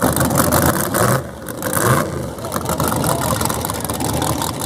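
Loud drag car engine idling and revving with a rapid pulsing rumble. It dips briefly about a second in, then comes back up.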